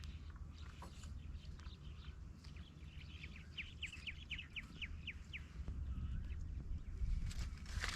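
A bird calling in a quick series of about ten short, downward-sliding notes, around five a second, over a steady low rumble. It ends with a sudden loud burst.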